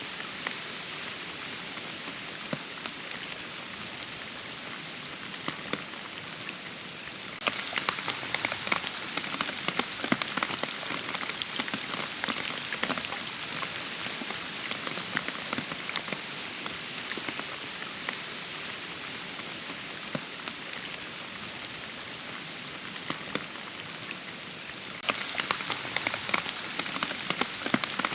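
Steady rain falling, with many separate drop hits over an even hiss. It turns abruptly louder and denser about seven seconds in, eases back near the end, then turns louder again.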